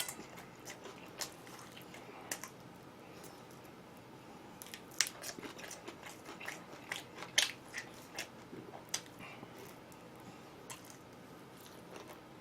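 A person biting and chewing crunchy food, with scattered sharp crunches that come thickest in the middle.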